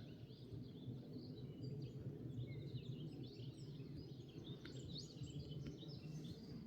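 Small birds chirping and twittering in many short, quick calls over a steady low background rumble.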